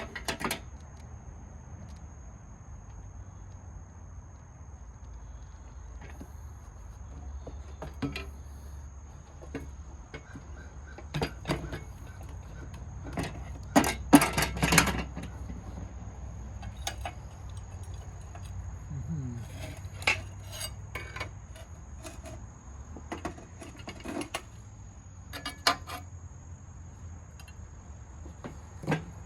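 Scattered clinks and clatters of hard objects being handled and set down, with a louder cluster of clattering about halfway through.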